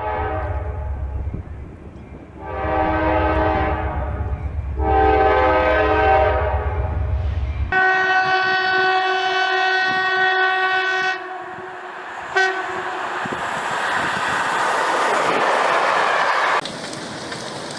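Locomotive horn sounding two long blasts over a low engine rumble, then a third long steady blast. After that comes a loud, steady rushing noise.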